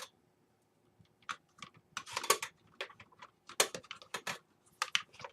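Irregular small clicks and rustles of a SATA cable and computer parts being handled and fitted.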